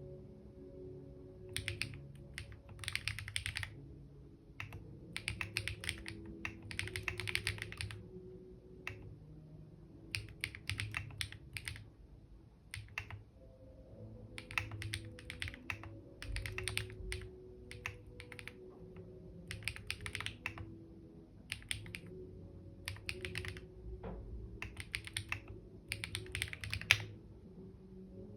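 Computer keyboard typing: short runs of rapid keystrokes with pauses of about a second between them.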